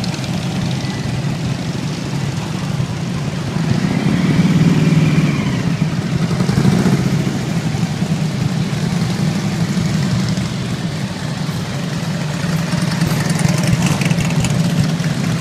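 Motorcycle engines running steadily, growing louder about four seconds in and again near the end.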